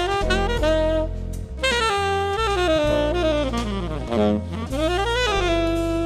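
Jazz quartet recording: a saxophone plays a flowing melodic line with notes that bend and glide, over a bass line that changes note about every half second.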